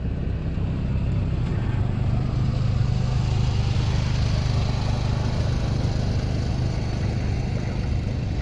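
Sprint car engines at racing speed on a dirt oval, a steady drone that grows louder over the first few seconds and then slowly eases as the cars move on.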